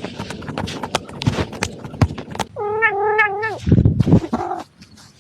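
A cat meows once, a call of about a second held at a steady pitch that drops slightly at the end, after scattered light clicks and rustles. A short burst of loud, low rumbling noise follows right after the meow.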